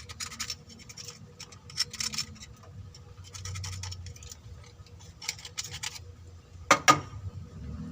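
Hand scraping or rubbing in short repeated strokes, with two sharp knocks close together about seven seconds in.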